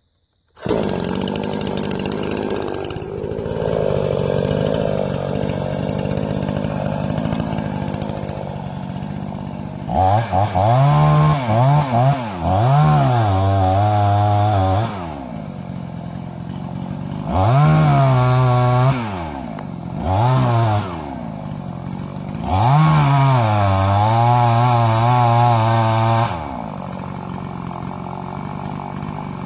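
45cc two-stroke chainsaw engine idling. It is then revved up and down about five times, twice held at full throttle for a few seconds, before dropping back to idle near the end.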